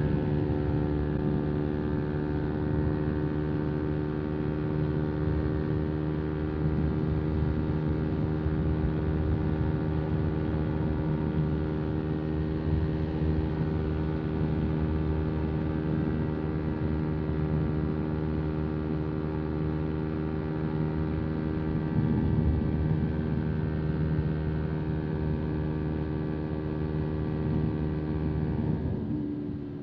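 125 cc single-cylinder motorcycle engine running at a steady high cruising speed, its note holding almost constant, then easing off near the end as the throttle closes and the pitch drops.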